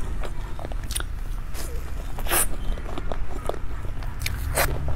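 Close-miked wet chewing and lip smacks of a person eating a soft cream-filled pastry, with scattered short mouth clicks; the loudest smacks come about two and a half seconds in and near the end.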